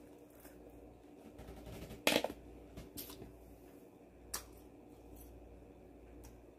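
Crunching while chewing crispy fried sweet-and-sour pork (guobaorou): a few short, sharp crisp clicks, the loudest about two seconds in.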